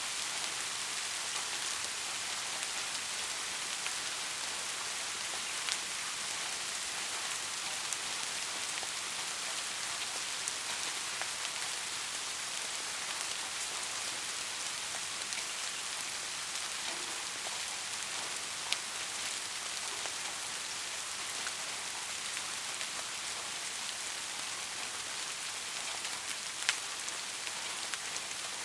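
Steady rain falling, an even hiss, with a few louder single drop taps standing out now and then.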